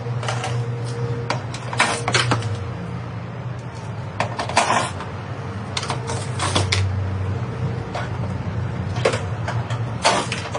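Metal clanking and banging at intervals as a car is dismantled, five loud crashes over a steady engine hum from working machinery.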